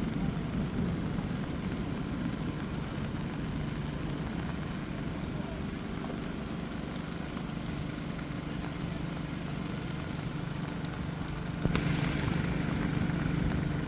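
Steady rain hiss mixed with a low, steady hum of vehicle traffic, with a sudden louder rush of noise near the end.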